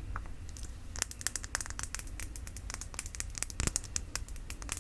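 Quick, light taps on a glass perfume bottle, in fast irregular runs of crisp clicks, with one heavier knock about three-quarters of the way through.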